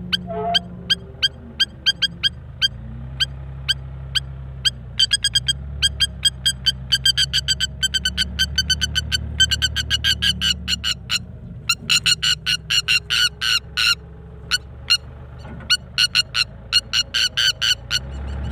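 Bird chirping in rapid runs of short, high, identical peeps, several a second, over a low steady drone that shifts pitch a few times.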